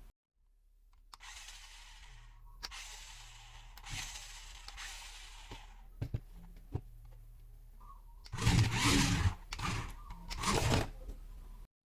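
Handling of toy packaging: rustling with scattered clicks, then several loud crackling bursts about eight seconds in.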